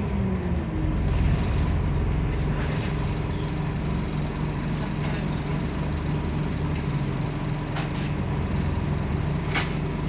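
Diesel engine of a Scania CN270UB city bus, heard from inside: it drops in pitch as the bus slows in the first second, then runs steadily at low revs. Four brief sharp hisses or clicks stand out over it.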